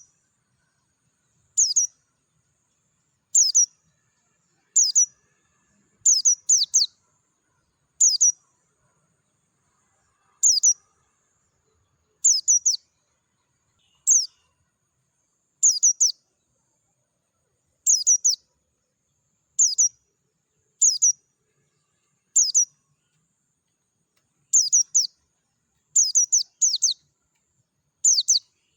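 Pleci dakun, a white-eye, calling: short, high chirps that fall quickly in pitch, repeated about every one to two seconds, often two or three in quick succession.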